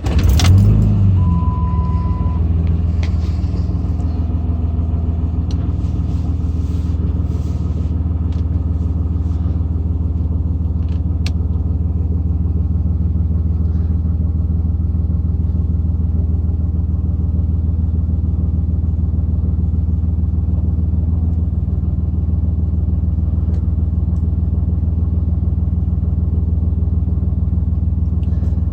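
Cummins 5.9L inline-six turbodiesel catching on a cold start at about 20°F, its grid heater cycle just done. It flares briefly as it fires, then settles into a steady idle. A short beep sounds about a second in.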